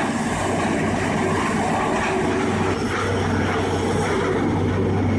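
Heavy machinery running steadily: a constant low hum under a dense, even rumble.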